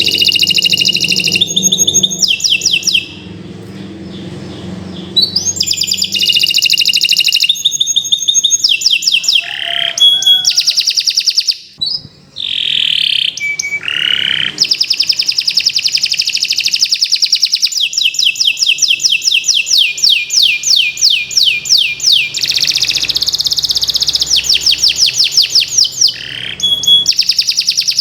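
Domestic canary singing a long, vigorous song of fast trills and rolls of rapidly repeated high notes, with only brief pauses.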